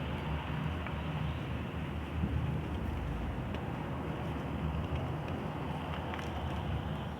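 Chalk being crushed and ground, a continuous gritty crunching with a few small sharp cracks.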